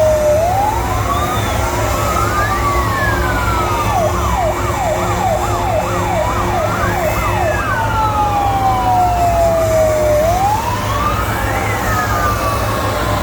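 Several fire engine sirens sounding at once: slow wails rising and falling, with a fast yelp for about four seconds in the middle, over a steady low rumble.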